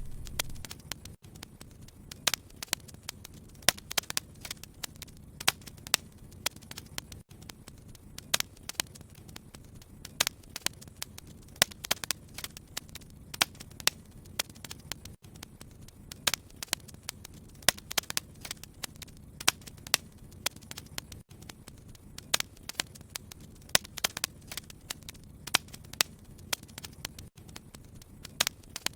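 Wood fire crackling, with frequent irregular sharp pops and snaps over a low steady hiss.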